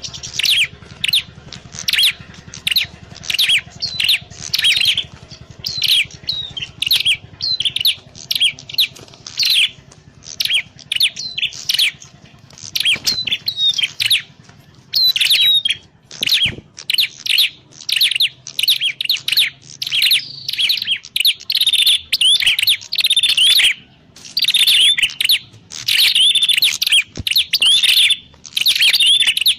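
Prenjak klawu (a prinia) calling: a rapid, continuous run of loud, sharp chirps, several a second, broken only by brief pauses.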